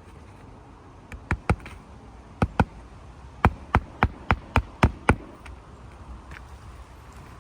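Hammer driving roofing nails through asphalt shingles: two pairs of taps, then a quick run of seven strikes, about four a second, sinking a nail.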